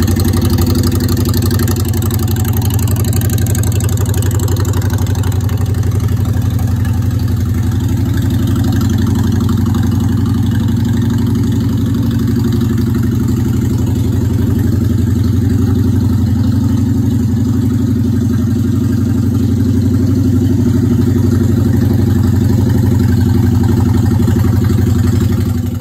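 Honda Shadow Spirit 750's V-twin engine idling steadily, warming up after sitting in the cold.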